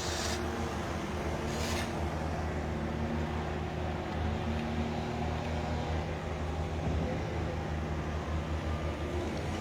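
Construction machinery engine running steadily in the background: a low drone with a few held tones. Two short hisses come in the first two seconds.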